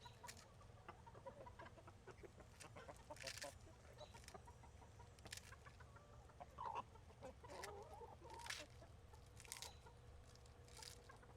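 Chickens clucking quietly in short scattered calls, with a few sharp clicks in between.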